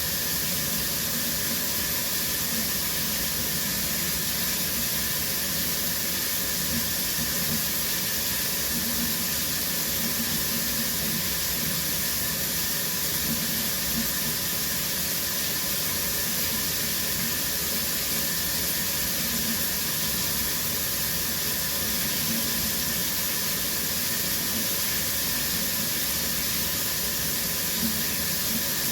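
Shower running: water spraying steadily from the showerhead, an even hiss that does not change.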